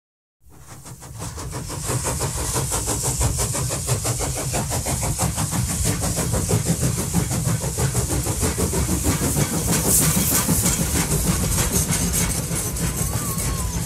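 Train running with a rapid, even chugging rhythm, fading in over the first couple of seconds and then holding steady.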